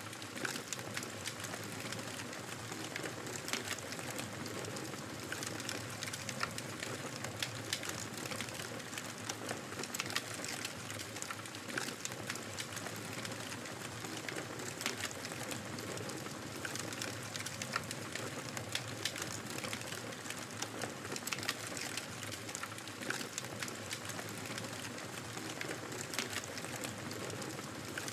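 Wood fire crackling steadily in a fireplace: a constant soft hiss dotted with frequent sharp pops and snaps.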